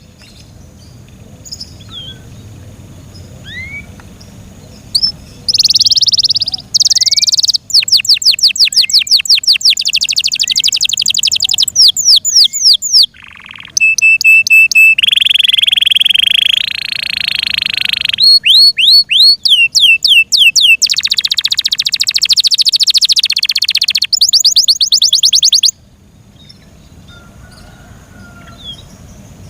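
F1 Yorkshire-cross canary singing a long, loud song of fast trills and rolls, each phrase a rapid run of the same note repeated. A few single chirps come before the song, and it breaks off near the end into a few soft chirps.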